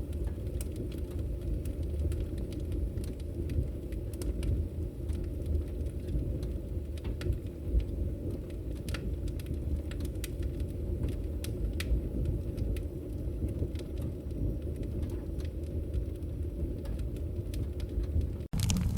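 Wood fire burning in a fireplace: a steady low rumble of flames with scattered sharp crackles and pops of burning firewood. The sound cuts out for an instant near the end.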